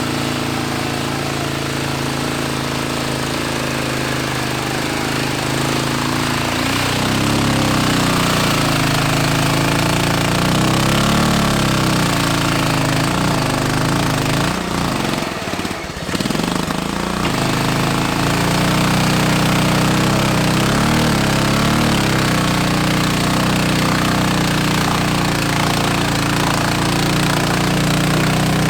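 Small lawn-tractor engine running hard and rattling through a mud bog run, its revs rising and falling, with a brief dip in level about fifteen seconds in before it picks up again.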